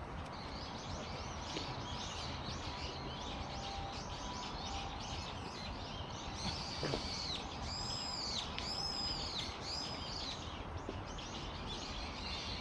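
Small birds chirping throughout, with a run of about five louder arching calls, each rising then falling, from about six and a half to ten seconds in, over a steady low outdoor background. A single faint knock about seven seconds in.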